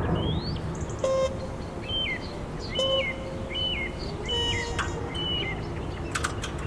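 A bird chirping over and over, about one short call a second, each call dropping in pitch at its end.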